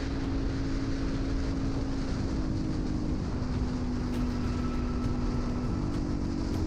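Motorcycle engine running at a steady speed over heavy low wind rumble, its drone dropping slightly about three seconds in and rising again near the end.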